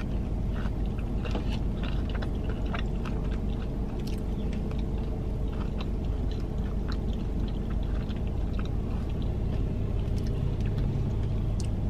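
Close-up chewing of a fried mac and cheese bite: soft, irregular mouth clicks and smacks over a steady low hum.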